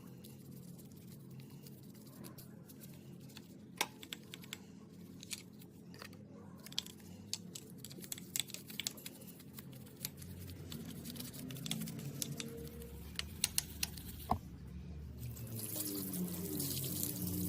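Faint scattered clicks and taps over a low hum, then water starting to run or spray about three-quarters of the way in, getting louder toward the end.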